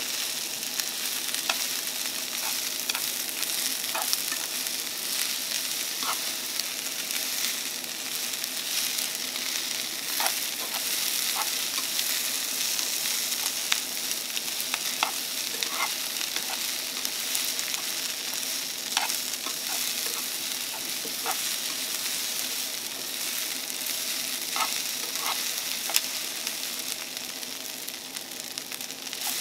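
Ketchup fried rice with carrots and egg sizzling steadily in a small frying pan on a portable butane stove. Metal chopsticks stir it, clicking against the pan at irregular moments.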